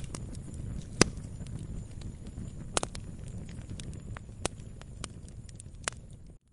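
Campfire crackling: irregular sharp pops and snaps of burning wood, the loudest about a second in and near three seconds, over a low rumble of the flames. The sound drops out for a moment near the end.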